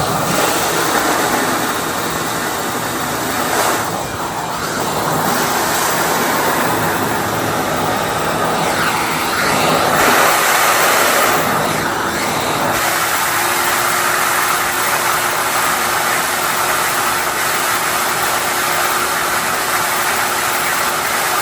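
14-gallon wet/dry shop vacuum running steadily, sucking standing floodwater off a basement floor. Its tone changes a few times as it works.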